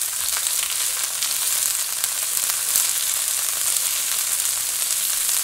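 Diced bell peppers sizzling steadily in hot olive oil in a skillet, a continuous frying hiss with small crackles as they are stirred with a spatula.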